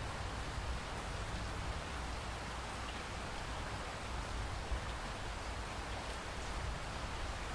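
Steady rain falling, an even hiss of drops with a low rumble beneath and occasional faint drop ticks.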